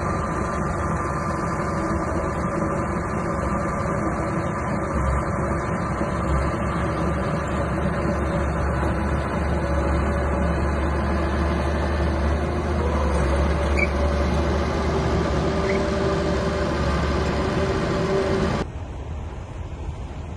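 Small bulldozer's diesel engine running steadily while it works, with a strong low hum; the sound drops abruptly and becomes quieter near the end.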